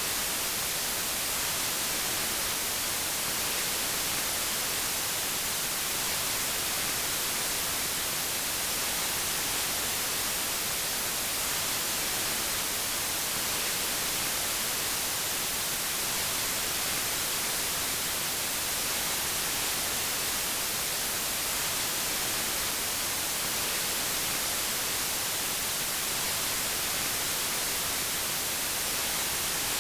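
Steady synthetic white noise: an even, unchanging hiss, brightest in the high end.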